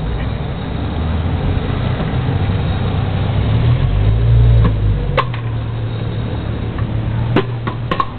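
A car engine running nearby: a low, steady rumble that swells about four seconds in and eases off. A few sharp clicks come near the end.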